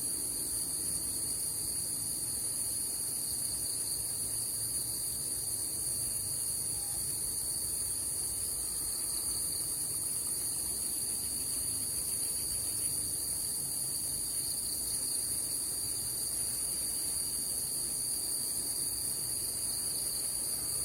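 Steady chorus of insects: a continuous high-pitched shrill at an even level, with no breaks.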